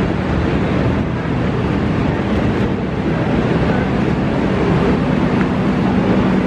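Steady low hum of a stationary diesel passenger train running at idle, the hum growing a little stronger about five seconds in, with wind noise on the microphone.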